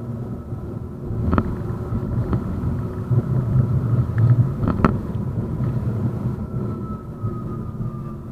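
A 71-931M Vityaz-M tram running along the line: a steady low rumble of wheels on rails, with two sharp knocks about a second and a half and five seconds in, and a faint whine that falls in pitch near the end.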